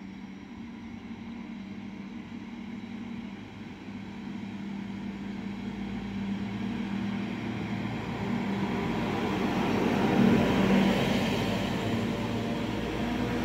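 Newag 222M electric multiple unit pulling into the platform, its running noise growing steadily louder as it comes alongside, over a steady low hum.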